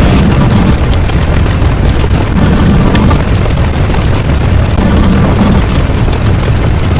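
Loud, continuous rumbling of layered explosion sound effects, heaviest in the bass, with no single blast standing out.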